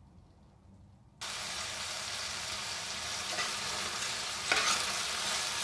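Okra, onions and ground spices sizzling in hot oil in a pan while a spatula stirs them, starting abruptly about a second in, with a few louder scrapes of the spatula on the pan. This is the masala being dry-roasted (bhuna) with the okra.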